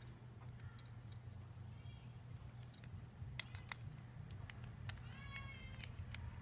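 Scattered light clicks and taps of small parts being handled, with a short high-pitched call about five seconds in and fainter ones earlier.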